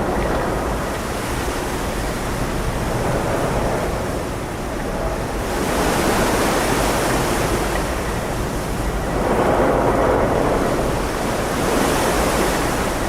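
Wind and sea waves rushing steadily, swelling and easing every few seconds.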